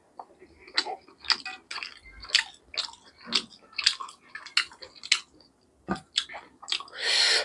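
A person chewing and biting into chicken kosha (spiced chicken curry): irregular wet smacks and clicks about two a second, as fingers tear meat from the pieces, with a longer breathy rush near the end.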